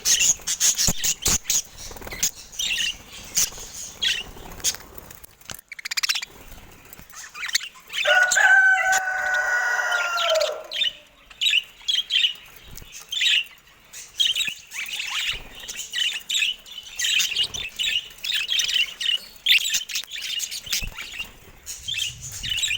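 Budgerigars chirping and chattering in quick high notes, with sharp clicks among the calls in the first few seconds. About eight seconds in, a lower, longer call lasting some three seconds slides downward.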